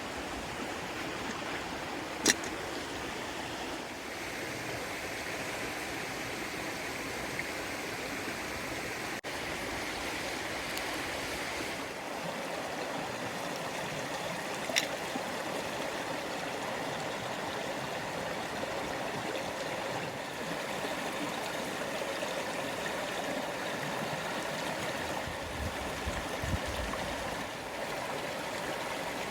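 Creek water running steadily over rocks, a continuous rushing. Two sharp clicks cut through it, a loud one about two seconds in and a softer one about fifteen seconds in.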